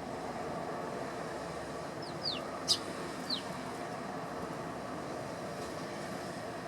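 Eurasian tree sparrows giving a few short, quick downward chirps about two to three and a half seconds in, one of them a sharp, click-like note that is the loudest sound, over a steady background rumble.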